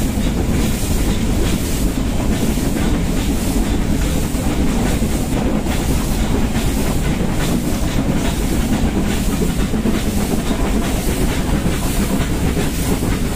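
Nilgiri Mountain Railway train climbing the steep rack section, heard from beside a coach. The wheels rumble and clatter steadily on the track.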